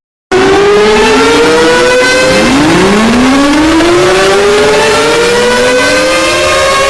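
Several civil defence sirens winding up one after another, their rising tones overlapping over a steady noisy rush. The sound starts abruptly just after a brief silence.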